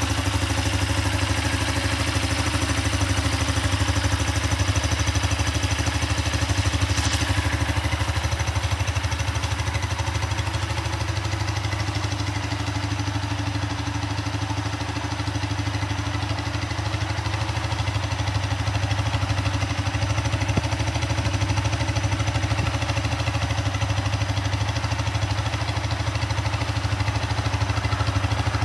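Honda FTR223's air-cooled single-cylinder four-stroke engine idling steadily.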